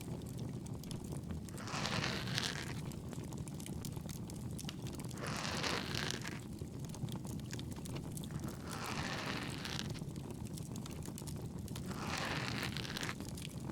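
Campfire crackling steadily, with many small pops over a low rushing bed. A soft airy hiss swells four times, about every three and a half seconds.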